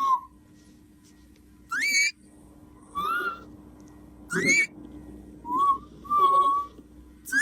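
Pet parrot whistling: three sharply rising whistles about two and a half to three seconds apart, with shorter, steady whistled notes in between.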